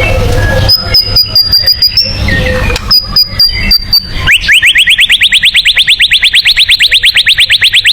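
White-rumped shama (murai batu) singing a 'tembakan' phrase: two high held whistles laced with fast clicking, then from about four seconds in a rapid run of rising notes, about ten a second.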